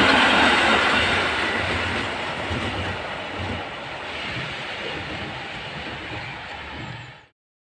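EN57 electric multiple unit running away along the track, its sound loudest at first and fading as it draws away. The sound cuts off suddenly about seven seconds in.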